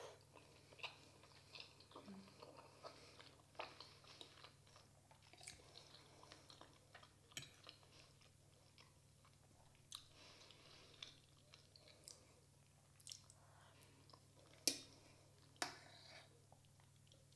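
Close-miked chewing and soft mouth sounds of a person eating a chicken cutlet with mashed potatoes, with small clicks of a metal fork against the plate. Two sharper clicks come a second apart near the end.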